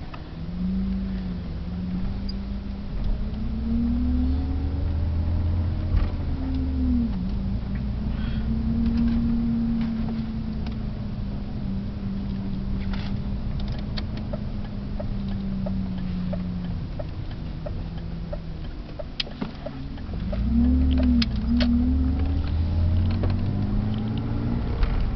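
BMW 328's straight-six engine heard from inside the cabin while driving slowly, revs rising and falling with gear changes and easing off twice before pulling away again. A regular ticking, about two a second, runs for several seconds in the middle.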